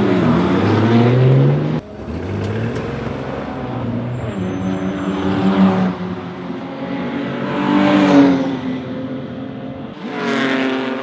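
Period racing car engines revving hard and passing at speed, one car after another. Each pass swells in loudness and then falls in pitch, most clearly about eight and ten and a half seconds in. The sound cuts off abruptly about two seconds in.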